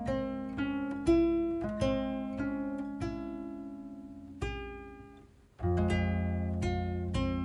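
Background acoustic guitar music: plucked notes ringing and dying away, fading almost out about five seconds in before a fuller chord comes in.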